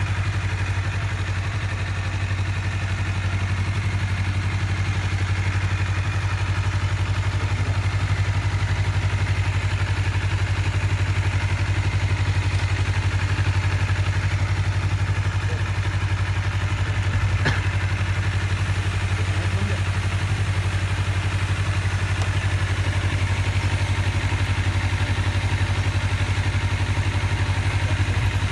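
Motorcycle engine idling steadily while it warms up after a start. One brief click sounds about halfway through.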